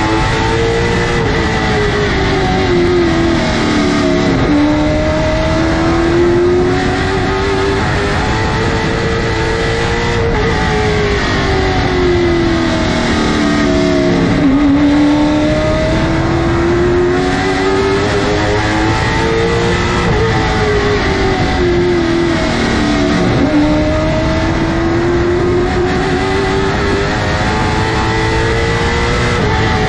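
Late model stock car's V8 engine running hard around a short oval. Its pitch climbs steadily, then drops sharply as the driver lifts, then climbs again, repeating roughly every nine seconds.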